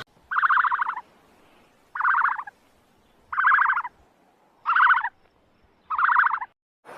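A bird calls five times, evenly spaced, each call a short rattling burst.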